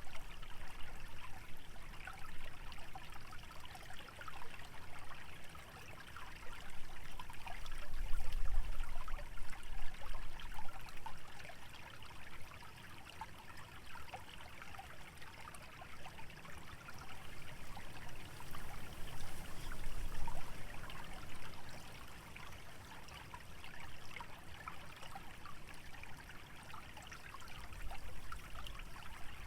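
Shallow stream trickling through a wetland: a steady, fine babbling of water. Low wind gusts swell up about eight seconds in, again around twenty seconds, and near the end.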